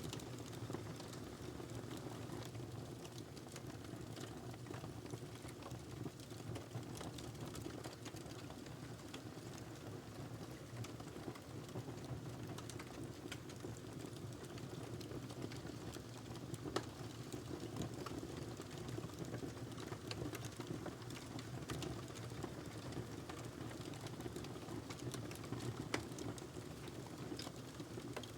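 Log fire burning in a fireplace: a steady low rush of flames with scattered small crackles and pops, and a couple of sharper pops.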